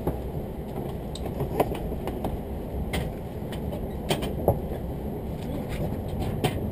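Train running through a station on its approach to the terminus, heard from inside the car: a steady low rumble of wheels on rail, with irregular sharp clicks and knocks from the running gear and the car.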